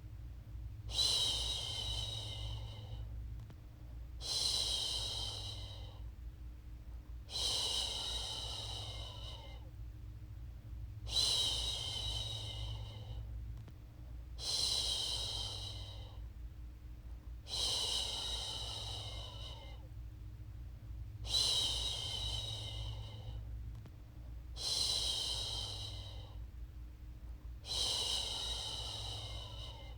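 A woman shushing a long "shhh" over and over, nine hushing hisses about every three and a half seconds, each lasting about two seconds, to soothe a baby to sleep. A steady low hum runs underneath.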